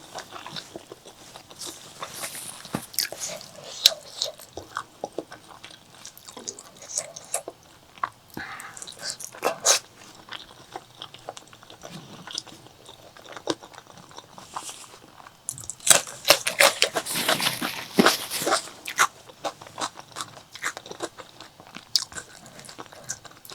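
Close-miked eating of pork leg curry with rice: wet chewing, lip smacks and crunching bites. A denser, louder run of chewing comes about two-thirds of the way through.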